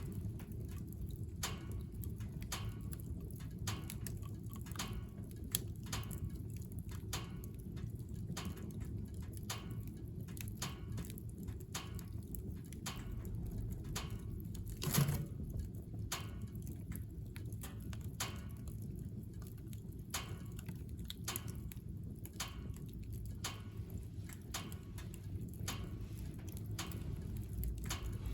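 Wood fire crackling in a wood-burning stove: irregular snaps and pops over a low, steady rumble, with one louder pop about halfway through.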